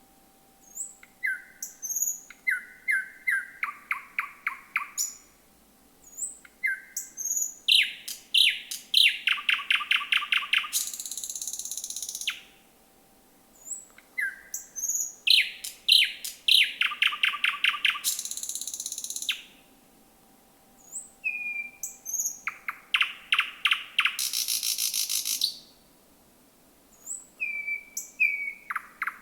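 Thrush nightingale singing at night: five song phrases of a few seconds each, separated by short pauses. Each phrase opens with a few sharp whistled notes, runs into a fast series of repeated clicking notes, and several end in a dry, rattling 'trott'.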